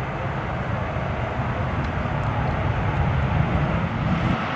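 Sikorsky UH-34D helicopter running, its radial piston engine and rotor making a steady low drone with a fast pulsing beat.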